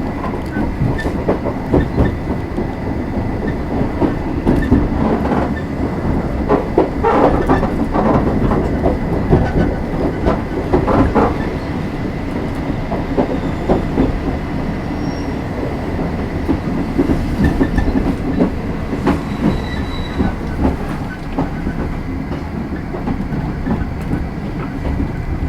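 Running noise of an Oigawa Railway 16000 series electric multiple unit (ex-Kintetsu express car 16001) heard inside the passenger car. There is a steady rumble of wheels on rail, with clusters of clacks from the rails, thickest a third of the way in.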